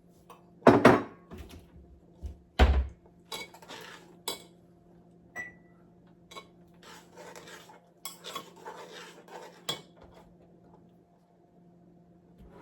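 Pots, dishes and utensils being handled in a kitchen: two loud clanks in the first three seconds, then lighter clinks and scraping that die away about ten seconds in, over a faint steady hum.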